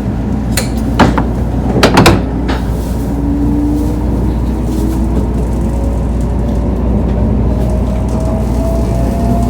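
Inside the cabin of a Tokaido Shinkansen train under way: a steady low rumble, with a few sharp knocks in the first two seconds or so. After that a faint whine rises slowly in pitch as the train gathers speed.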